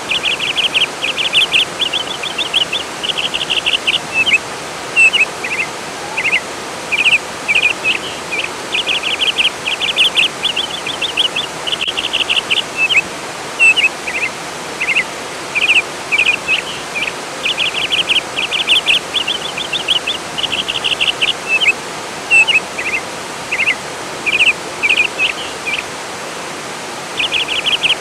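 A songbird singing over a steady rush of flowing water. Its song comes in phrases of rapid, high trilled notes and short chirps, with brief pauses between phrases.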